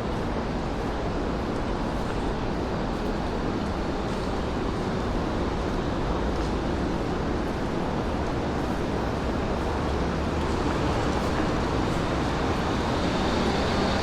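Steady city street noise: traffic and a constant urban hum, growing slightly louder near the end.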